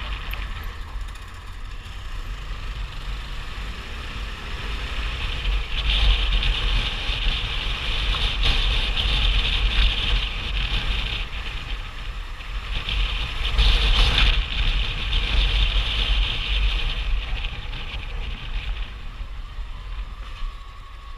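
Police patrol motorcycle riding, wind buffeting the microphone over the engine, with a hiss that swells louder twice, about six and fourteen seconds in.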